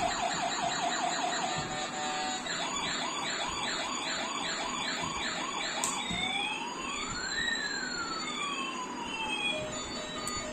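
Toy police car's electronic siren: a fast warbling yelp, a few sweeps a second, for about six seconds, then a single slow wail that rises and falls, then a steady beeping tone near the end.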